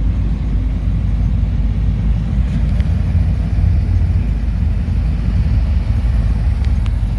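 Car engine rumbling steadily as a vehicle drives slowly past, with a couple of faint clicks.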